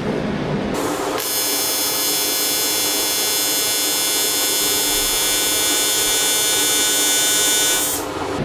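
AC TIG welding arc on aluminium: the arc strikes about a second in, buzzes steadily for about seven seconds as a bead is laid, and cuts off near the end.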